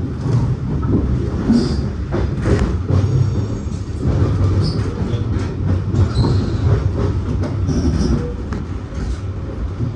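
NSW TrainLink V set double-deck electric intercity train running along the track: a steady low rumble of wheels on rail, with scattered sharp clicks and several brief high wheel squeals.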